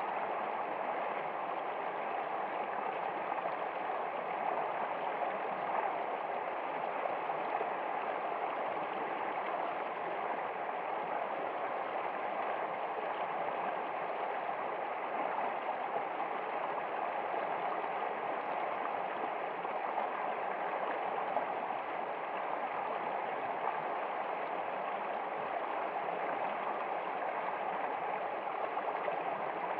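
Flowing stream water running steadily, an even unbroken rush with no breaks.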